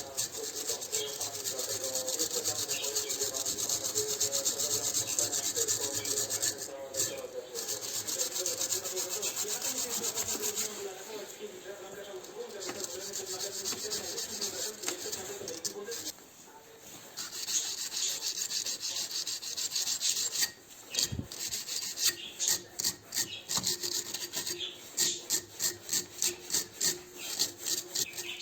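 Rubbing and scraping, like sanding or filing by hand. It is a steady hiss for the first half, then breaks into quick back-and-forth strokes, about two or three a second, in the last several seconds.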